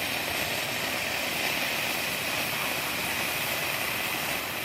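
Homemade sorbitol rocket motor burning with a steady hiss, too weak to lift the rocket off the pad.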